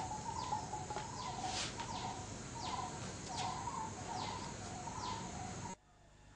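Birds calling: repeated short, high, downward-sliding calls over a string of lower warbling notes. The calls cut off abruptly about 5.8 seconds in.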